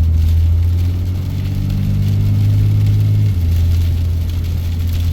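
Diesel truck engine running steadily under way, heard from inside the cab as a loud low hum. About three seconds in the note changes and its upper tones drop away.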